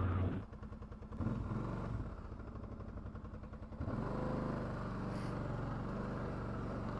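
ATV engine running at low revs, a quiet steady hum that picks up a little about four seconds in.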